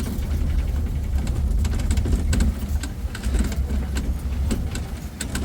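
Safari truck driving along, its engine and road noise making a steady low rumble, with frequent short rattles and knocks from the vehicle.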